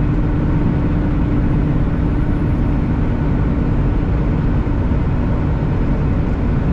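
Semi truck's engine and road noise heard inside the cab while driving: a steady low rumble.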